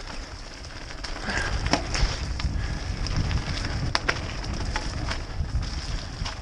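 Full-suspension mountain bike being ridden along a muddy trail, heard from an onboard action camera: a low rumble of tyres and wind buffeting the microphone, starting about a second in, with scattered sharp clicks and rattles from the bike.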